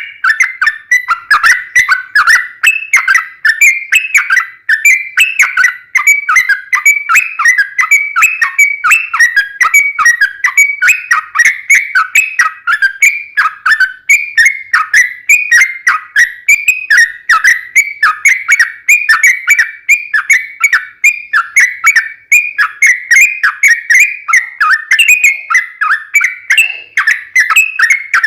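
Yellow-vented bulbul (trucukan) singing a long, unbroken run of short whistled notes, several a second, in the rapid 'ropel panjang' style.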